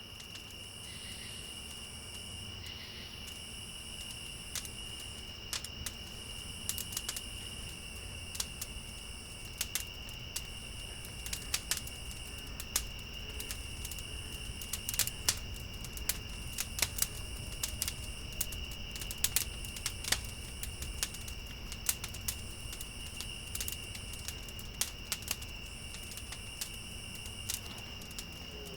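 Insects such as crickets trilling steadily in a high continuous chorus, with a second, higher insect sound that starts and stops every few seconds. Scattered sharp clicks or snaps come through over the chorus and are the loudest sounds.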